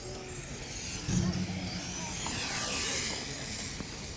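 Radio-controlled racing cars whining around the track, their high motor whine swelling as cars pass, loudest just before three seconds in, with pitch falling as they go by.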